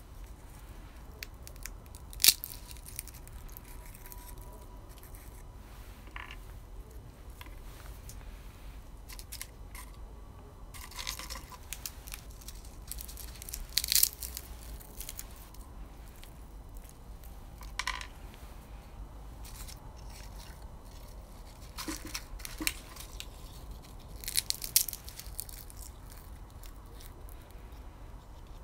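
Roasted beans crunching and cracking: irregular sharp crunches every few seconds, a few loud single cracks among quieter clusters.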